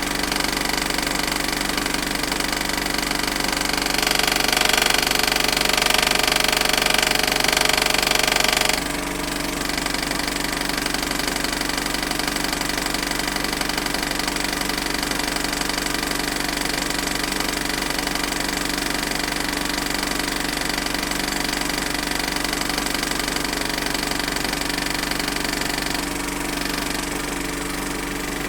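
Film projector running steadily, its motor humming under the rapid clatter of the film transport. It grows louder and brighter for a few seconds about four seconds in, then settles back, and shifts slightly again near the end.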